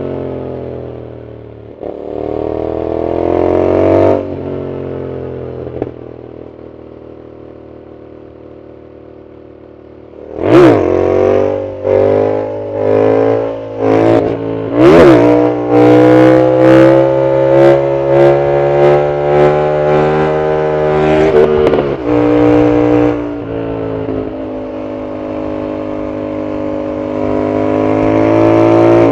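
Yamaha MT-07's parallel-twin engine through a loud aftermarket full exhaust, heard from the rider's seat. It pulls briefly, then coasts off the throttle more quietly for several seconds. About ten seconds in it revs hard through several quick surges and dips like rapid upshifts, holds at high revs, eases off near the end and builds again.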